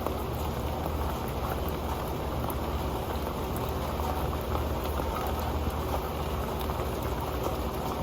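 Steady rain falling onto an old pan: a dense, even patter with scattered sharp drop ticks.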